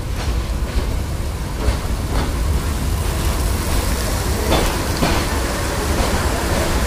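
Passenger train rolling slowly into a station, heard from inside the carriage: a steady low rumble with an even hiss of rain, and twice a pair of sharp wheel clacks over the rail joints about half a second apart.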